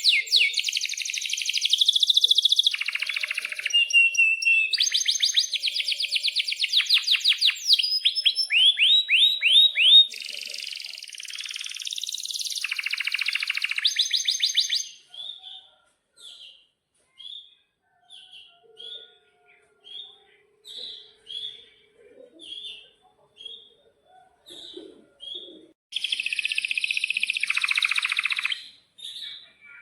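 Domestic canary singing: fast rolling trills and sweeping notes for about fifteen seconds, then a string of short separate chirps, then another burst of dense trilling near the end.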